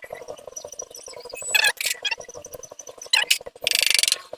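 Socket ratchet wrench clicking and metal tools clinking as the 10 mm bolts on a Honda Activa's cylinder head are undone, with a fast run of ratchet clicks near the end.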